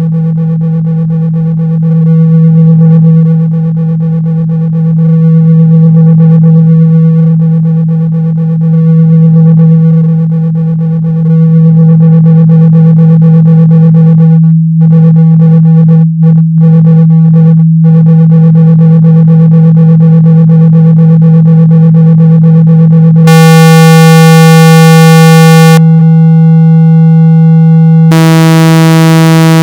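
A loud, steady low electronic tone of about 162 Hz, the kind played to vibrate water and dust out of a speaker. It swells and dips in loudness at first and cuts out briefly a few times around the middle. Near the end it turns harsh and buzzy twice.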